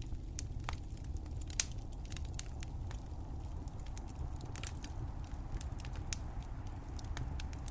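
Wood fire crackling: irregular sharp pops and snaps over a steady low rumble, with one louder pop about one and a half seconds in.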